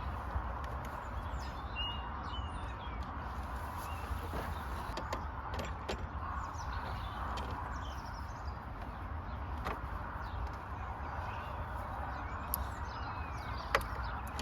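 Steady background hiss and low hum, with birds chirping now and then and a few sharp clicks and knocks, the sharpest near the end.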